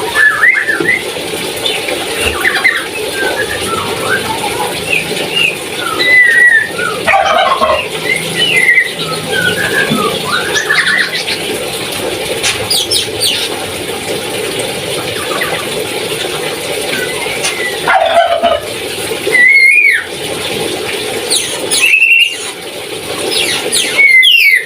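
Lory (nuri) calling, a busy run of short chirps, squeals and gliding whistles with several louder calls later on.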